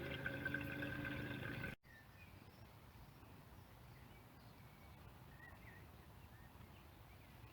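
Faint outdoor quiet with a few short, soft bird chirps. A louder steady hum with a hiss cuts off suddenly about two seconds in.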